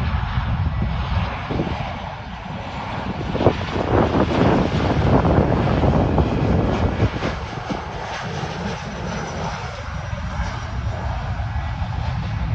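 Jet airliner's engines, a loud rushing roar that builds to a peak about four to seven seconds in and then eases off as the plane passes.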